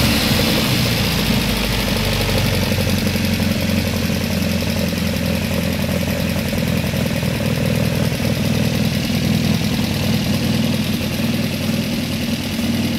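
Alfa Romeo Alfetta GTV 2.0 Nord twin-cam four-cylinder engine idling steadily on freshly rebuilt and retuned twin Solex C40 ADDHE carburettors, running smoothly.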